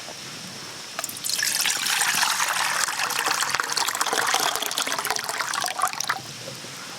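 Water being poured for about five seconds, starting abruptly about a second in and stopping suddenly near the end.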